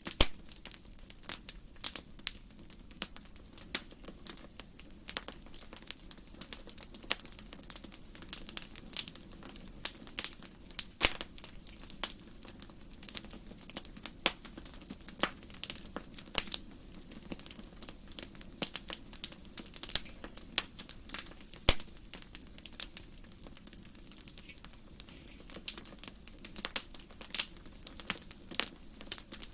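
Wood fire burning in a fireplace, crackling and popping irregularly, with frequent sharp snaps over a soft steady rush of flame.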